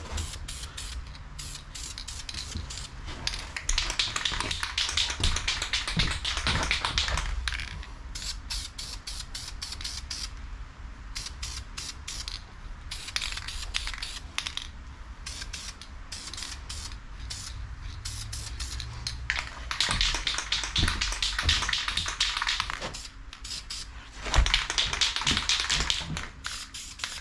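Spray paint hissing out in several long bursts, with shorter sprays and light clicks between them, as an engine is given a coat of paint.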